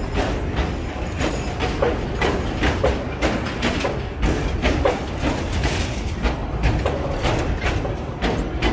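Narrow-gauge sugarcane train rolling past, its wagons rumbling steadily and clattering with many irregular knocks over the rails.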